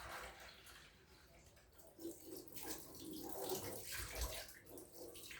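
Faint wet sounds of water being handled, in short irregular bits from about two seconds in.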